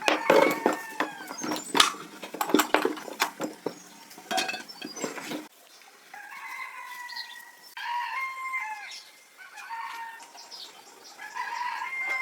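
A quick run of sharp knocks and clicks, then chickens calling: several held, wavering calls from about six seconds in.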